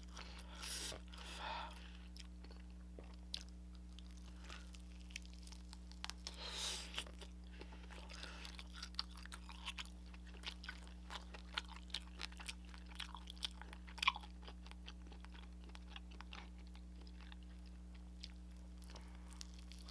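Close-miked chewing of soy-glazed fried chicken: many small sharp crackles and wet mouth clicks, with a louder crack about 14 seconds in and a few longer breathy mouth sounds near the start and about six seconds in. A steady low electrical hum runs underneath.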